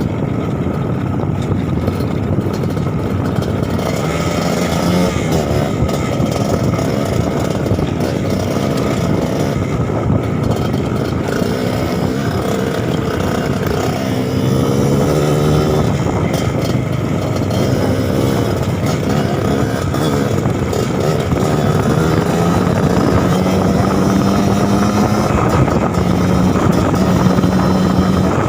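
Trail motorcycle engine running under load, its pitch rising and falling as the throttle is worked, with a longer climbing rev in the second half.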